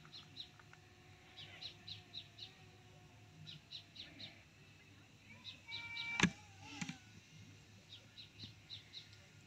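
Birds calling: short high chirps in quick runs of three to five, repeating every second or two. A single sharp click sounds a little past the middle.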